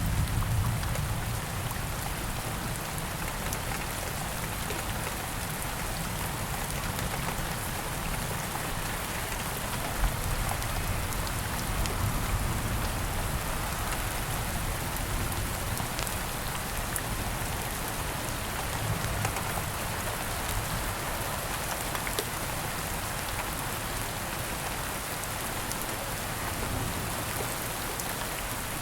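Steady rain falling on surfaces, with scattered small sharp pops of a campfire burning in the rain. A low rumble of thunder fades out in the first second.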